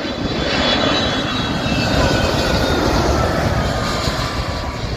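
Jet airliner's engines passing low overhead on landing approach, a loud rumble with a whine that slowly falls in pitch as the plane goes by.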